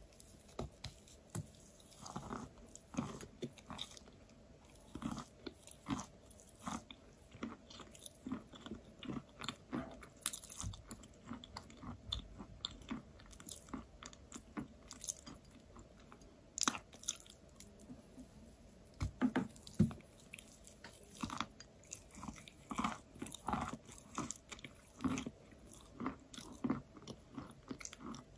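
Close-miked biting and chewing of a soft, crumbly block of chalk: irregular sharp crunches as pieces break off, with softer wet chewing between them.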